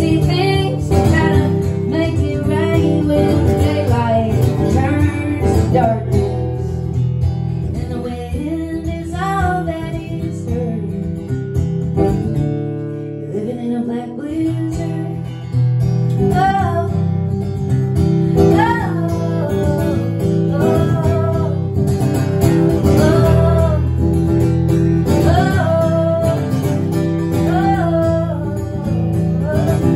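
Live acoustic guitar strumming chords, with a woman singing a country-folk song over it; the playing eases off briefly about halfway through, then picks up again.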